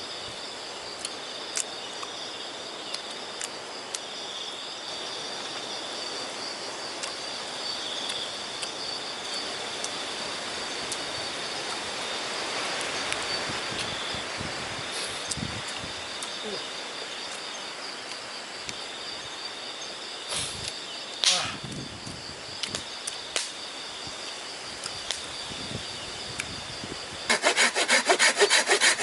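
Night insects trilling steadily at two high pitches over a rushing haze of wind, with scattered sharp clicks. Near the end a much louder, fast, evenly repeating rasping starts.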